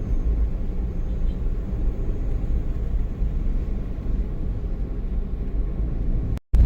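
Steady low rumble of a moving road vehicle heard from inside it, engine and road noise, which drops out for a moment near the end.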